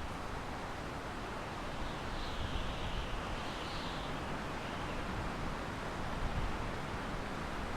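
Wind blowing steadily through pine trees, a continuous airy rushing hiss of the needles with a low rumble underneath.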